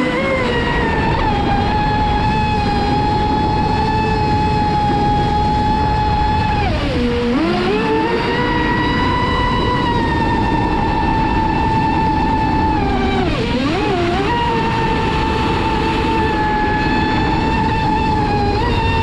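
Traxxas Spartan RC racing boat's brushless electric motor whining at a steady high pitch over the rush of water. The pitch drops sharply and climbs back twice, as the throttle is let off and opened again.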